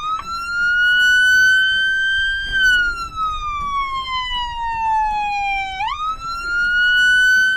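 Police car's electronic siren sounding through its front-mounted speaker in a wail. The pitch climbs slowly for about two and a half seconds and falls for about three. Near the end it sweeps quickly back up and holds high.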